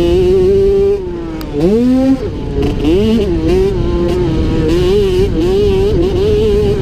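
50cc two-stroke youth motocross bike engine running hard at high revs. About a second in the throttle is chopped briefly, then the revs climb back and the pitch wavers up and down as the rider works the throttle over the track.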